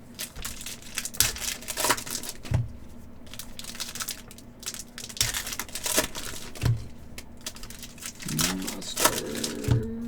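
Trading card packs being handled: foil wrappers crinkling and tearing, with irregular taps and clicks of cards on the table. A brief rising tone that then holds steady comes in near the end.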